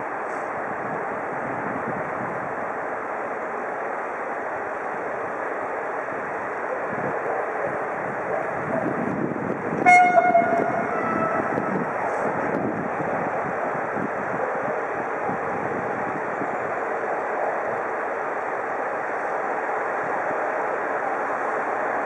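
A train running in a railway station, a steady rumble that swells slightly partway through. About ten seconds in, one short horn toot sounds, dropping a little in pitch.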